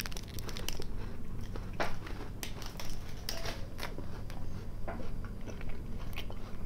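Biting into and chewing a chocolate-covered wafer candy up close, with irregular crisp crunching and crackling.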